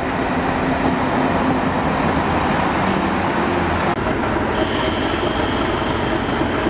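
Passenger coaches rumbling past on the rails. About four seconds in, it gives way to a Class 37 diesel locomotive's English Electric engine running steadily, with a high whistle on top.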